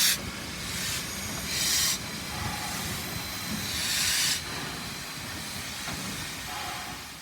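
A steam locomotive standing with a low rumble, giving short bursts of steam hiss about every two seconds, fading out near the end.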